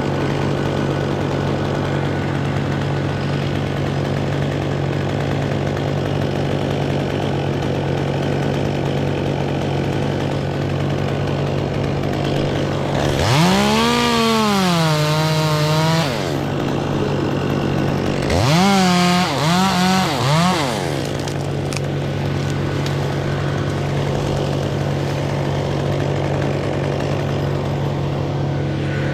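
Chainsaw revved up twice, its pitch rising and falling, about halfway through and again a few seconds later. A steady engine drone runs underneath.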